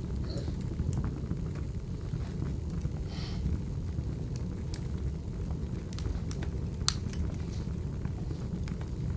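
Wood fire crackling: a steady low rumble of burning logs with scattered sharp pops and snaps, the loudest pop about seven seconds in.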